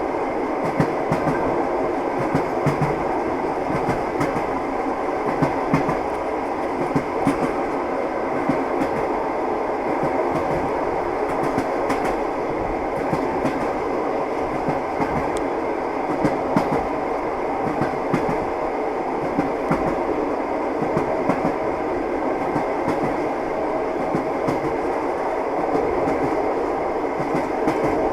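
Train running at steady speed: a continuous rumble with the wheels clacking and knocking irregularly over the rail joints.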